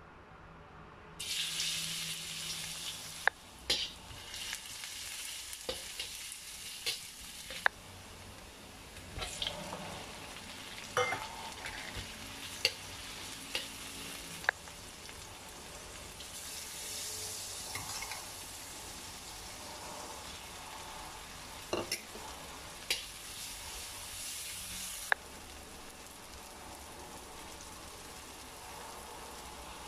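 Chopped garlic and tomato sizzling in hot oil in a wok. The sizzle starts suddenly about a second in as the food goes into the oil. A metal spatula stirs and scrapes, with sharp clicks each time it strikes the wok. The sizzle dies down about 25 seconds in.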